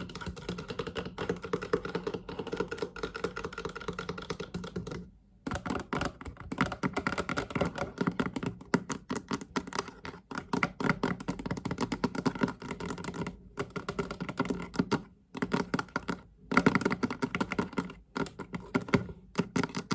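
Fast, continuous tapping on a chest, its box ringing hollowly under the taps, with a short pause about five seconds in and a few brief breaks later.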